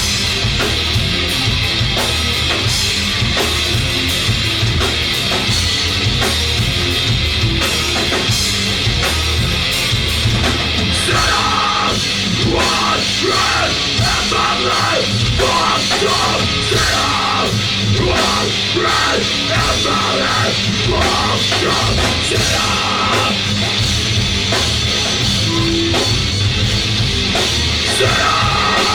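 Rock band playing live and loud, an instrumental stretch with a pounding drum kit and guitars and no singing.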